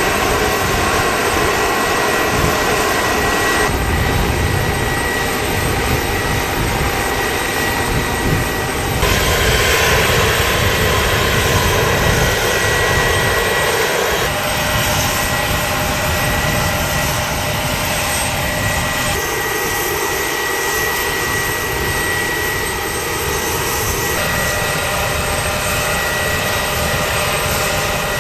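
CH-53E Super Stallion heavy-lift helicopter, with its three turboshaft engines and rotors running: a steady high turbine whine over rotor and engine noise. The sound shifts abruptly every few seconds as shots change.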